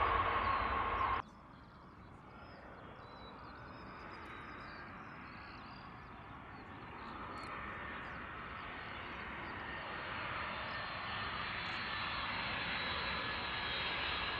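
A loud jet engine sound cuts off abruptly about a second in. It gives way to a large jet airliner on landing approach, its engine noise faint at first and growing steadily louder as it comes in.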